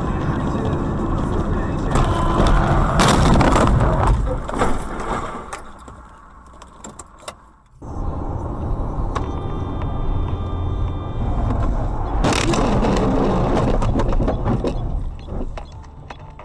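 Dashcam audio of a car on the road: steady engine and road noise, broken by two stretches of loud crashing and clattering, one about two to four seconds in and one about twelve seconds in, typical of a collision. The sound cuts out abruptly about halfway through.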